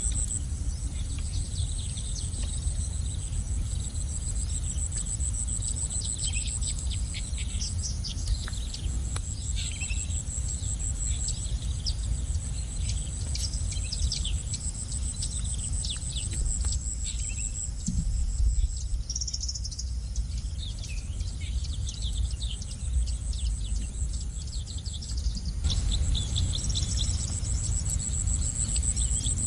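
Small birds chirping and twittering in quick short calls over a steady, high-pitched insect trill, with a low rumble underneath.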